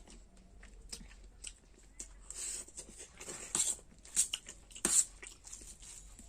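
A person eating masala Maggi instant noodles: chewing with a run of short wet mouth noises, several louder ones in the second half.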